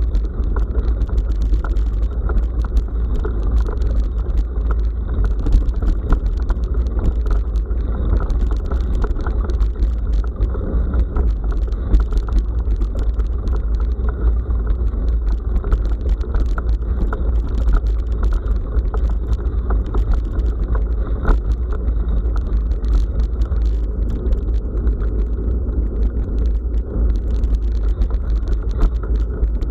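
Riding noise of a bicycle on a rough forest road, heard through the bike's SJCAM SJ5000X action camera: a steady low rumble of wind and tyres with frequent small knocks and rattles from the bumpy surface.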